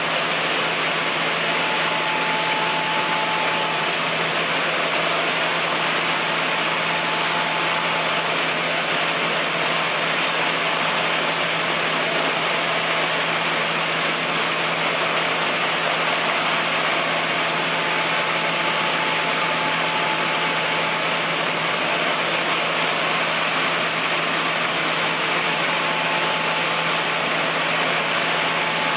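Chainsaw mill's two-stroke engine running at a steady high speed through a long cut, holding one even pitch with no let-up.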